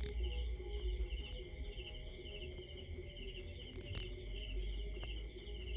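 Cricket chirping, a steady high-pitched pulse repeated about six times a second.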